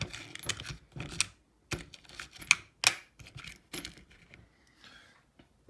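Small hard parts and tools clicking and clinking as they are handled on a workbench, a quick irregular run of sharp ticks with the two loudest near the middle, dying away about four seconds in.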